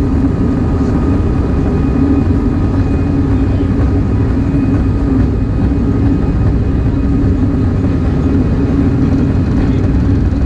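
Airbus A319 jet engines running steadily: a loud, even rumble with a faint high whine over it.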